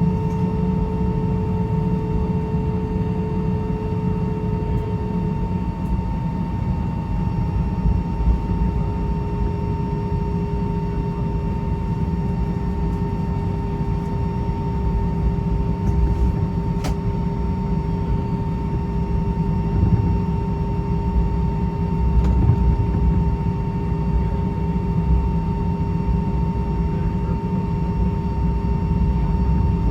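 Airbus A319 cabin noise: a steady, even rumble of the engines and airflow, with two steady tones hanging over it.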